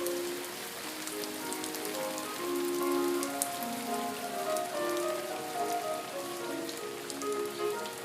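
Steady rain falling, with individual drops ticking sharply, under slow music of held notes that change pitch every second or so.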